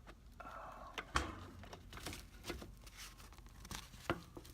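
Handling noise from an old pleated furnace air filter being worked out of the return-air vent: a short scrape and crinkling of the filter's cardboard frame, small clicks, and a sharp knock about a second in with another near the end.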